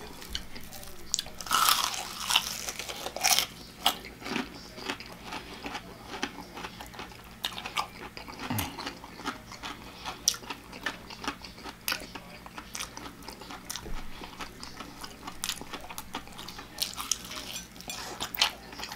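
Close-miked eating of a deep-fried chicken leg: crunching bites into the crisp breading, loudest a couple of seconds in, then steady chewing with many small mouth clicks.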